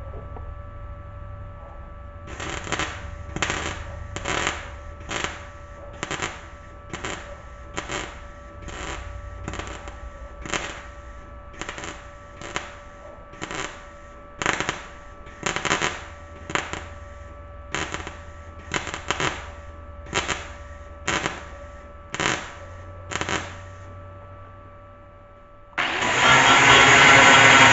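ArcCaptain MIG200 MIG welder laying short stitch welds on thin car body steel, about one brief crackling burst a second, some twenty in all, building up weld to fill rust holes. Near the end a loud, steady angle grinder starts up.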